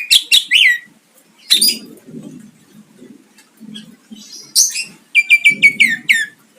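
Greater green leafbird (cucak ijo) singing loud, sharp song phrases. A burst of chattering notes at the start, a short phrase about a second and a half in, and near the end a rapid run of about seven piercing notes, each slurring downward. Fainter low sounds come in between the phrases.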